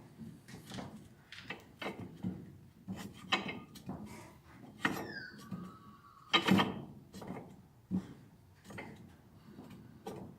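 Irregular knocks, clicks and scraping as tools and metal clamp parts are handled on a workbench, with a short falling squeak about five seconds in and the sharpest knocks a little after.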